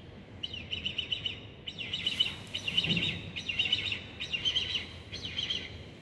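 A bird calling in about six short bursts of rapid, high chirping notes, with brief gaps between them.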